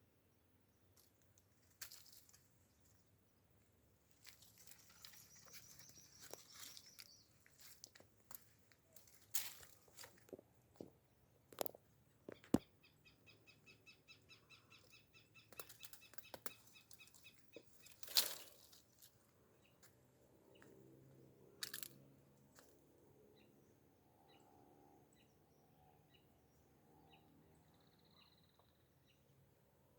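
Faint high bird chirps and a quick trill among scattered clicks and rustling; a sharp click about twelve seconds in and another about eighteen seconds in are the loudest sounds.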